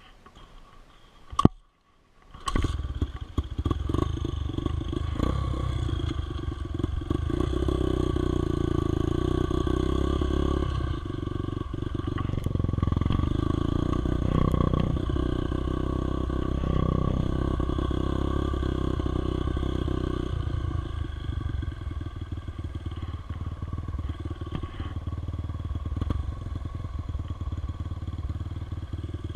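Motorcycle engine running steadily under way, loudest through the middle and easing a little near the end, after a single sharp click and a brief dropout in the first couple of seconds.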